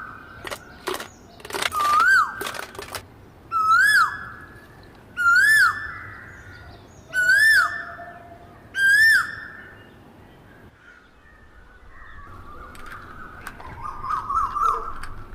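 A bird repeating a loud, clear whistled call that rises and then drops, five times at about one-and-a-half-second intervals, then softer warbling chatter near the end. A few sharp clicks sound early on.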